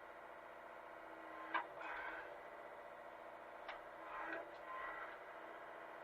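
Hitachi mini excavator's engine running steadily, with two sharp knocks, about a second and a half in and just under four seconds in, each followed by a short rough scrape.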